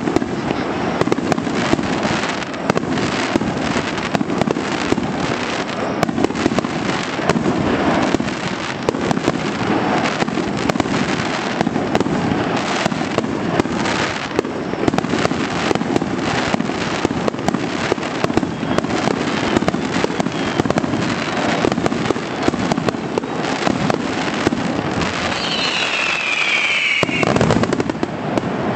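Fireworks display: a dense, continuous barrage of aerial shells bursting in quick succession, with crackle between the booms. Near the end a falling whistle sounds, then a louder run of bursts.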